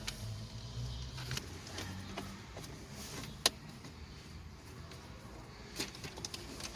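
Scattered sharp clicks and taps of hand tools and screws on the plastic dashboard trim of a Hyundai Tucson being dismantled, with a louder click about halfway and a cluster near the end. A low hum runs under the first couple of seconds and then fades.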